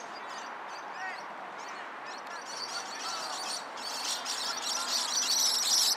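Birds chirping and chattering, with a rapid high-pitched chatter that builds and grows louder through the second half.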